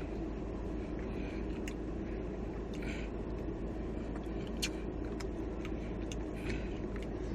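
Chicken nachos being chewed: a few short crisp crunches of tortilla chips over a steady low hum.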